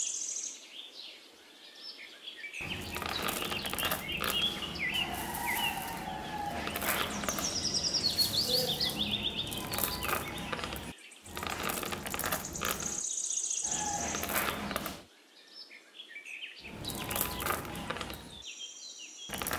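Handfuls of small pebbles and beads tipped onto a miniature concrete channel, clattering in several bursts with short pauses between them. Bird chirps sound over the top.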